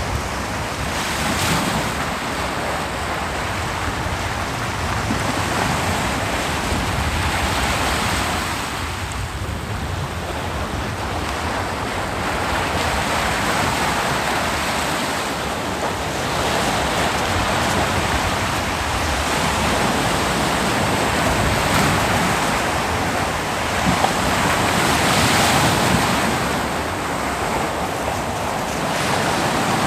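Ocean surf breaking on a beach: a continuous wash of waves that swells and ebbs every several seconds, with wind on the microphone.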